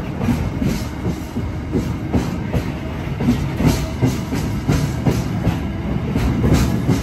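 Empty freight flat wagons rolling past close by, their steel wheels clattering over the rail joints in a steady run of clicks and knocks under a continuous rumble.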